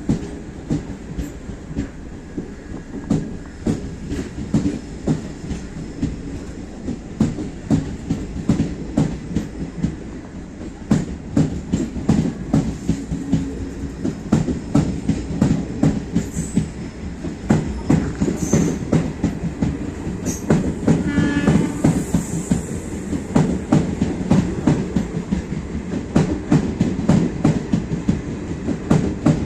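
ICF passenger coaches of a departing Indian Railways train rolling past, their wheels running with a steady rumble and rhythmic clickety-clack over the rail joints. There is a short squeal about two-thirds of the way through.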